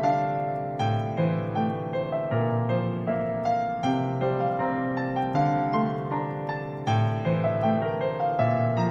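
Slow, gentle piano music, notes struck about every half second over sustained low bass notes.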